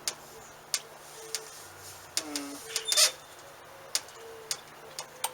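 A scatter of sharp clicks and taps, about a dozen at irregular spacing, with short faint steady notes between them.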